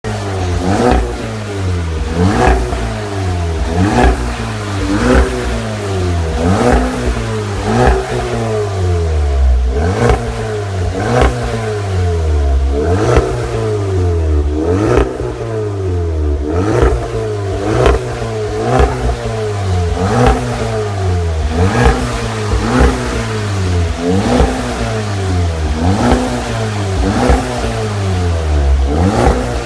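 VW Golf Mk7 GTI's turbocharged 2.0-litre four-cylinder engine revved through a full Remus aftermarket exhaust system: repeated short throttle blips, each rising quickly and falling back, about one every second and a half.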